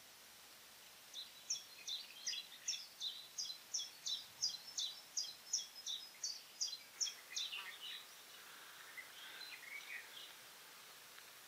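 A small bird singing: a long run of evenly repeated high notes, nearly three a second, starting about a second in and lasting some six seconds, followed by a few fainter, scattered notes over faint outdoor background noise.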